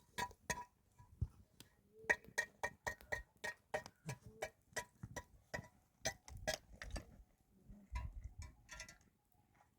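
Hammer blows in quick runs of several strikes a second, with short pauses between runs, each blow ringing briefly: nails being driven into wood.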